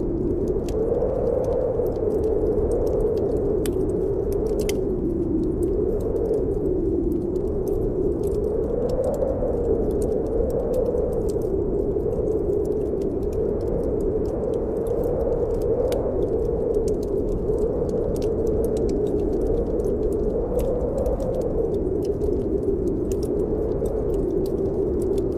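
Snowstorm wind blowing steadily, its pitch slowly rising and falling every few seconds, over a wood fire crackling with many small irregular pops.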